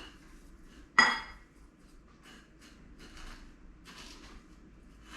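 A utensil clinks sharply once against a dish about a second in and rings briefly. Fainter scraping and rustling follow as chicken strips are coated in panko breadcrumbs.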